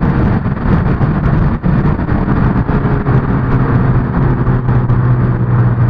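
Car engine and road noise heard from inside a moving car: a steady low engine note under rough noise, the note dropping slightly in pitch a little past the middle.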